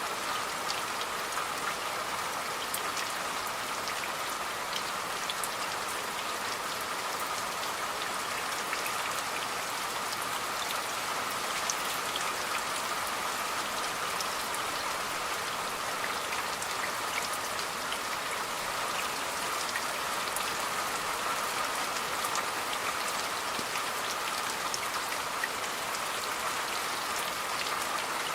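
Steady rain falling, a dense even hiss with many separate drops heard as small ticks.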